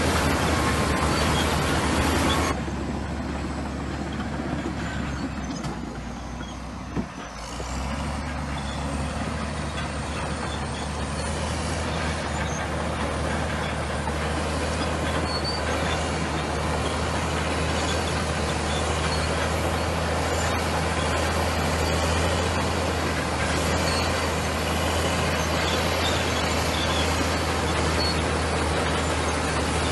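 Komatsu bulldozer's diesel engine running with a steady low hum. It drops off sharply a couple of seconds in and dips further, with a single knock about seven seconds in, then climbs back and runs steadily.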